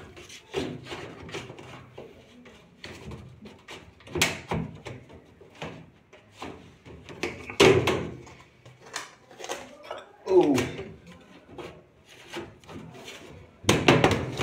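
Washing machine cover and panels being handled and set in place: a run of knocks and clunks, with a few louder bangs.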